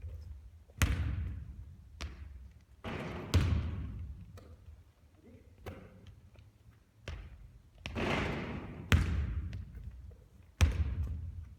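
A basketball thudding and bouncing on a hard court as shots are taken, about ten sharp echoing impacts every second or so.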